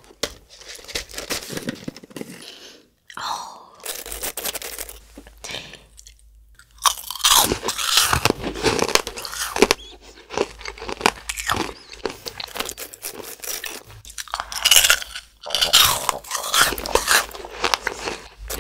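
Close-miked crunching and chewing of crisp mint-chocolate cookie snacks, sparse at first, then dense and loud from about seven seconds in after a short pause.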